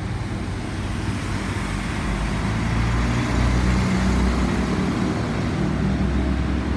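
Diesel engines of a rail multi-purpose vehicle (MPV), DR 98982, pulling away from the platform. The low engine note grows gradually louder and shifts in pitch as it gets under way.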